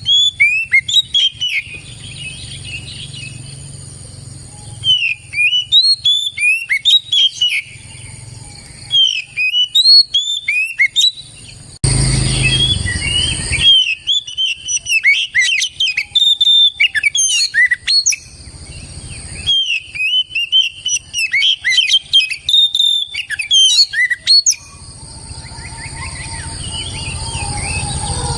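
Oriental magpie-robin (kacer) singing a loud, varied whistled song in bursts of rapid, sliding notes with short pauses between phrases. A steady high-pitched hum runs underneath, and a brief rush of noise comes about twelve seconds in.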